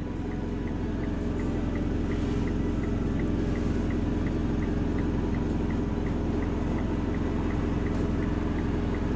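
Car engine running steadily, with a faint light ticking about three times a second.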